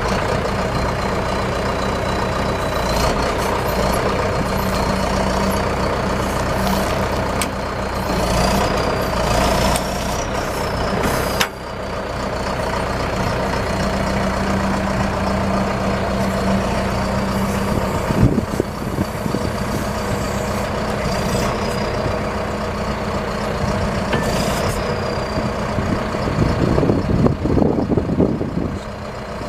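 2010 John Deere 310SJ backhoe loader's diesel engine running steadily, with a thin, slightly wavering high whine above it. Knocks and clatter come in about two-thirds of the way through and again near the end.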